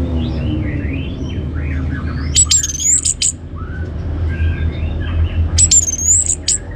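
Orange-headed thrush singing a fast, varied run of whistled and scratchy notes, twice breaking into a loud, high whistled phrase, about two and a half seconds in and again near the end. A steady low hum runs underneath.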